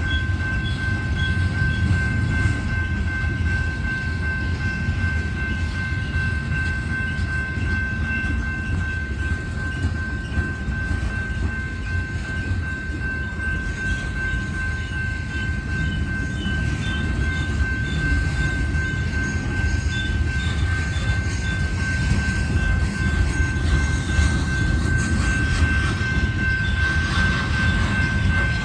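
Coal train's cars rolling past on the rails: a steady low rumble with a thin, steady high-pitched tone over it.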